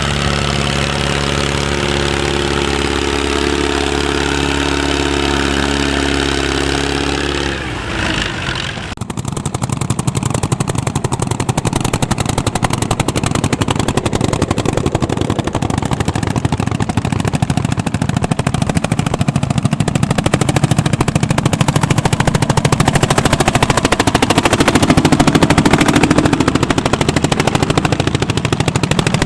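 Vintage tractor engines working. First a steady engine drone, then, after a break about 8 seconds in, a rapid, even pounding beat that keeps going.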